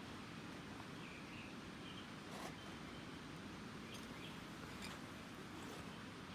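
Faint outdoor ambience: a few soft irregular pops and clicks, like a small wood campfire crackling, with faint bird chirps in the background.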